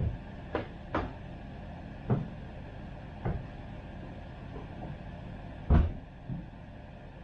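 Irregular knocks and thuds, about seven spread over several seconds, the loudest near the end, over a steady low hum.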